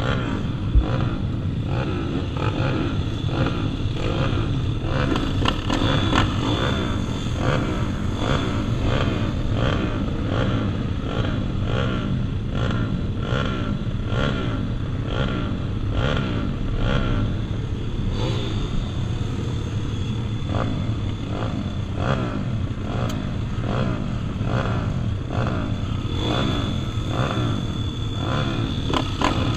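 Several pit bikes' small single-cylinder four-stroke engines racing together, each revving up and dropping back over and over as they work the track, their pitches overlapping. A single sharp knock comes just under a second in.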